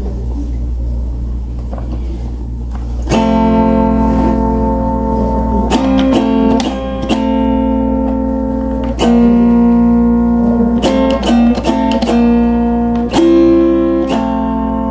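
Guitar music: chords ring out from about three seconds in and change every few seconds, with sharp plucked strokes, over a low steady hum.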